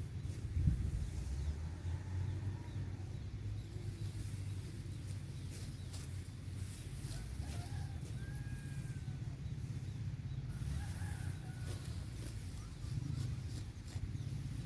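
Faint bird calls, a few short curved notes, over a steady low rumble, with scattered light clicks.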